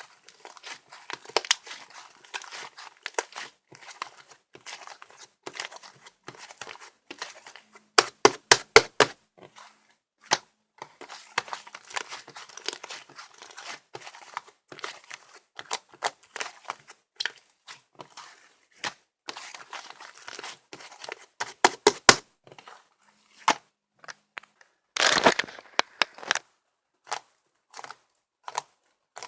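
Slime being squished, stretched and poked by hand, making sticky crackling and popping clicks. A quick run of loud pops comes about 8 seconds in, and a longer crackling squish near the end.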